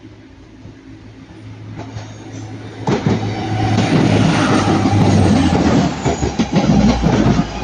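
TransPennine Express Class 185 diesel multiple unit passing close by. Its steady low diesel engine hum builds over the first three seconds, then gives way to loud wheel-on-rail noise with a rapid run of clicks from the wheels.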